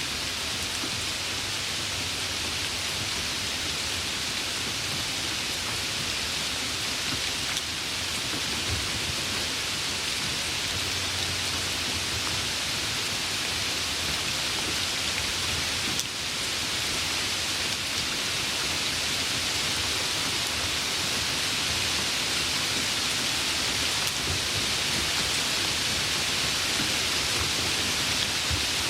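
Steady rainfall, an even hiss of many drops, with a faint low rumble underneath.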